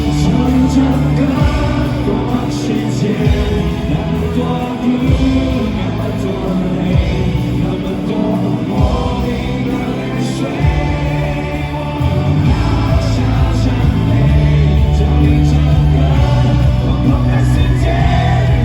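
A live pop-rock band playing a song with singing, the sound full and continuous, getting a little louder about twelve seconds in.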